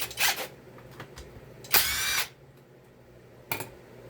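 A cordless power tool's motor whirs briefly, about half a second, a little under two seconds in, with a rising pitch. A click comes just before it and a sharp tool click near the end.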